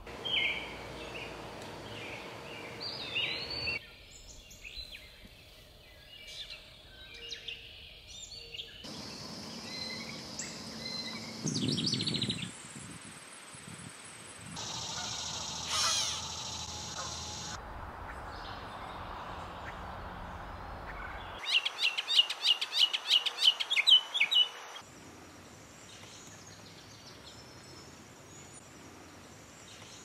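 A succession of different wild birds calling and singing, chirps, whistled notes and trills, with the background changing abruptly every few seconds as one recording cuts to the next. About three-quarters of the way through comes the loudest part, a fast run of sharp repeated notes.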